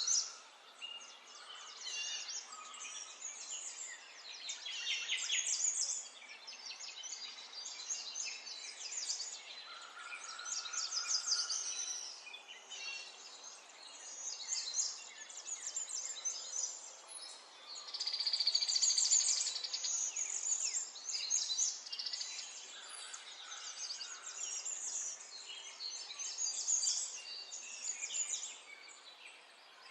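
Small songbirds singing and chirping: a busy, continuous run of rapid high-pitched trills and tweets, loudest a little past the middle.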